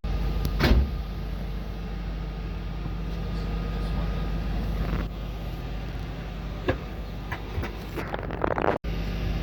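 Steady low mechanical hum, with a few faint brief knocks and clicks over it and a momentary cut-out near the end.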